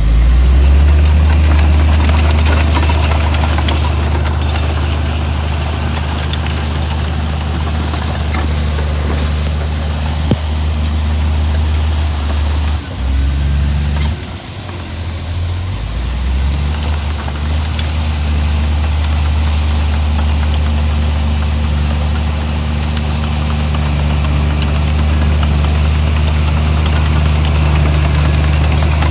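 Heavy diesel engine of earthmoving machinery running steadily under load, with a deep low drone. About halfway through its note drops and shifts briefly, then settles back to the same steady drone.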